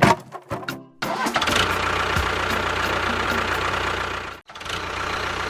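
An engine-like running sound starts abruptly about a second in, after a few short plopping notes. It runs steadily, cuts out briefly near the end, then resumes.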